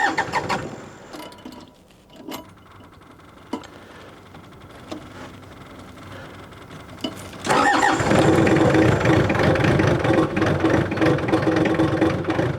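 The diesel engine of a John Deere 50ZTS mini excavator being cranked on a jump pack after sitting for months: a short burst of cranking at the start, then a few clicks. About 7.5 s in, it cranks over loudly and steadily, struggling to catch.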